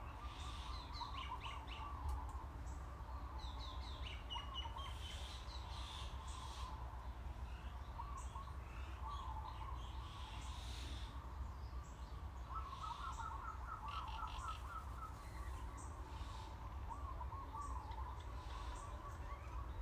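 Songbirds chirping and singing in short repeated phrases, with one rapid trill past the middle, over a steady low hum.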